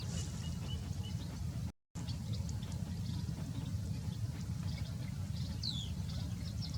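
Faint small-bird chirps and ticks, with one clear falling whistle a little under six seconds in, over a steady low rumble. The sound cuts out completely for a moment near two seconds.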